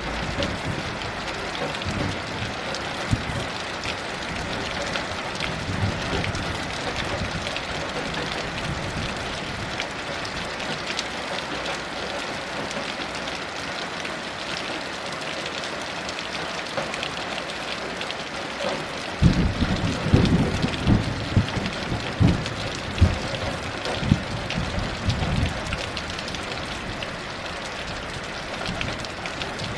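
Heavy rain falling steadily. About two-thirds of the way through, a roll of thunder rumbles for several seconds in uneven surges.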